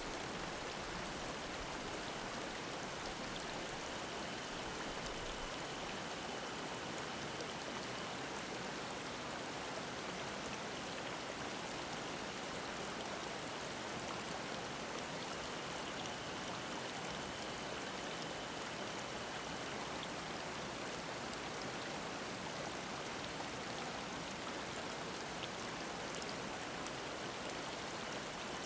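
Mountain stream babbling steadily over rocks. A faint, high, steady cicada drone comes and goes several times.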